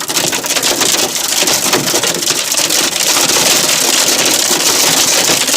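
Large hailstones pelting a car's roof and windshield, heard from inside the car: a dense, fast, irregular clatter of hard impacts over a rain-like hiss, growing heavier about halfway through.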